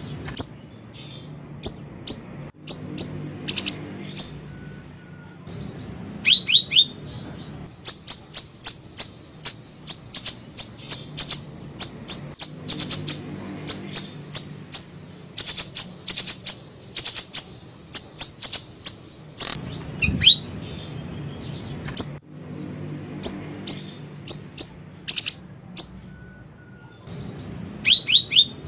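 Siri-siri, a small songbird, singing a lure recording of high, thin chirps that each sweep downward. They come in short clusters, with a long fast run of about three to four chirps a second in the middle, over a faint low hum.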